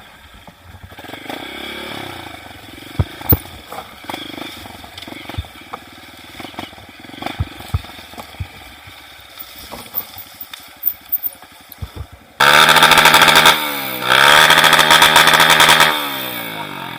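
Motorcycle engine revving hard close by, in two loud blasts near the end, the second dropping and then climbing in pitch. Before that, a faint engine sound with scattered knocks and clicks.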